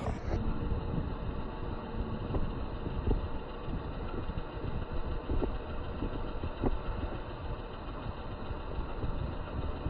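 An engine idling: a steady low rumble with faint light clicks, muffled.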